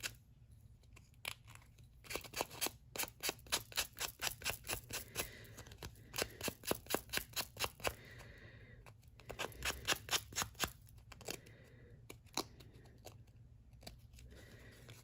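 Small hand-held sanding disc rubbed in quick, even strokes along the edge of a paper-covered playing card, about four strokes a second, in two runs with a short pause between them.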